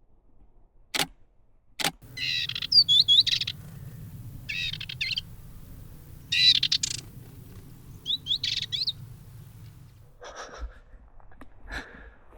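Dartford warbler singing: four short, high song phrases a second or two apart. Two sharp clicks come just before the first phrase.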